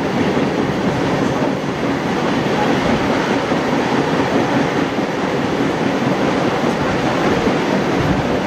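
Train running noise heard from aboard a passenger carriage hauled by a steam locomotive: a steady, unbroken rumble of wheels on the rails and the carriage in motion.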